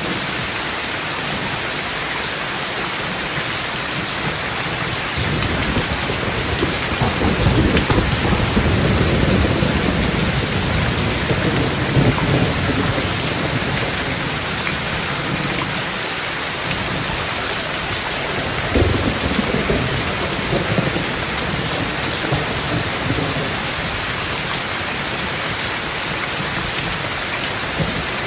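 Steady rain with thunder rolling twice. A long low rumble builds about five seconds in and lasts around ten seconds. A second, sharper crack comes about two-thirds of the way through and rolls away over a couple of seconds.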